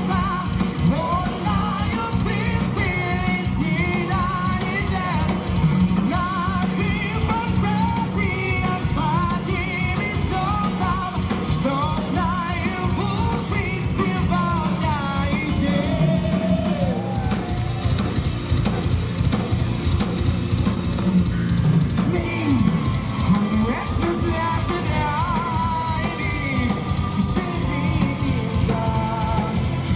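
Live heavy metal band playing a song: a steady drum kit pounding under distorted electric guitars, with a lead melody that bends and wavers in vibrato over the top.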